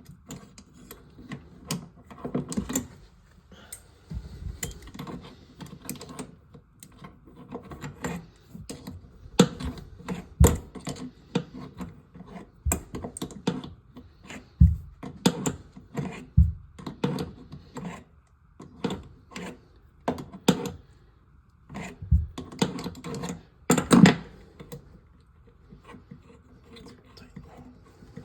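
Irregular clicks, taps and knocks of tools and small metal or plastic plumbing parts being handled and set down, with a few heavier thumps.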